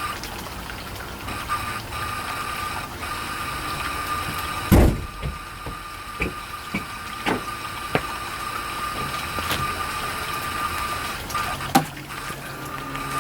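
Hard drive with worn-out bearings running with a steady whine, with a series of clicks and knocks; the loudest knock comes about five seconds in.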